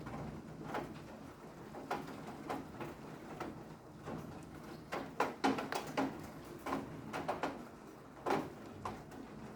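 Rain dripping: irregular, separate drops tapping sharply on a hard surface.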